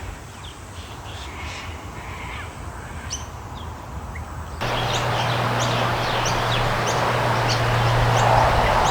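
Birds calling with scattered short chirps. About halfway through the sound cuts to a louder stretch of many quick, high chirps over a rushing hiss and a steady low hum.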